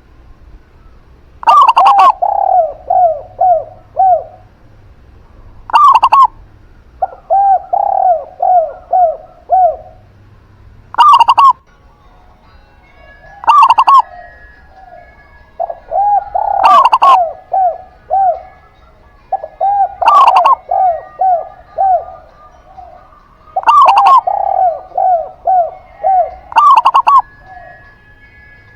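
Dove cooing loudly in repeated phrases, roughly every three to four seconds. Each phrase is a higher opening note followed by a quick run of short falling coos, about five a second.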